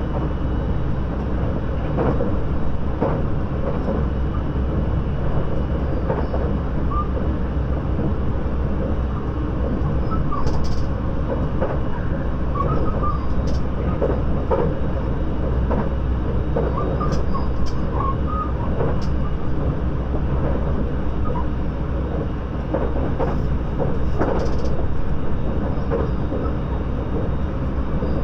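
Running noise heard from inside the passenger cabin of a 681-series electric train motor car: a steady low rumble of wheels on rail, with irregular clicks and knocks as it passes over rail joints.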